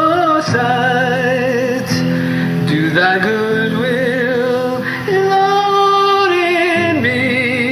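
Worship song: a singer holding long notes with vibrato over guitar accompaniment.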